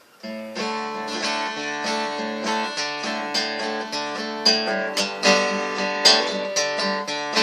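Acoustic guitar playing a picked and strummed intro to a country song, a run of single notes over ringing bass strings.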